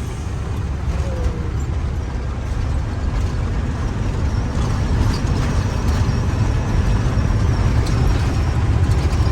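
Truck running along the road: a steady low engine and road rumble that grows slightly louder through the stretch.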